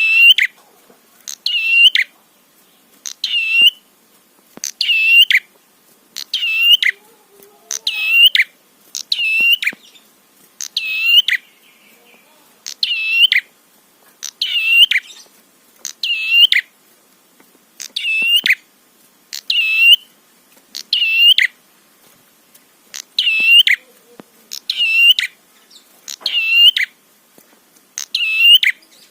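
Prinia (prenjak) song: a short burst of high, quick notes repeated very regularly about every second and a half to two seconds. It is a lure call played to provoke other prinias into singing.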